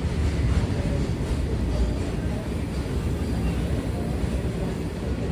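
Train running past, a steady low rumble.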